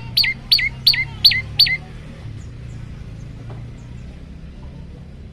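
Prenjak lumut (olive-backed tailorbird) calling: a quick run of sharp notes, each sweeping steeply downward, about three a second, stopping about two seconds in. Fainter scattered chirps follow over a low steady hum.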